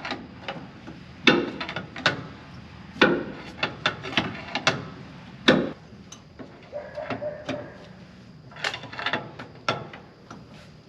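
Hand tools knocking and scraping as spark plugs are worked out of a seized engine. The knocks are irregular, every second or two, with scraping between them.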